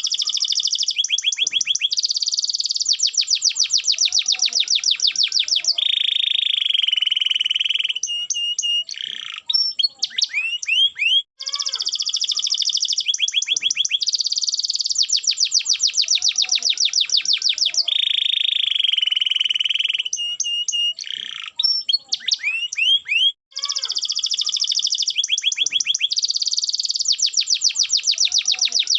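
Domestic canary singing a long song of fast, rapid-note trills and a rolling, buzzy tour, with brief pauses between phrases. The same sequence of phrases repeats about every 12 seconds, as a looped recording.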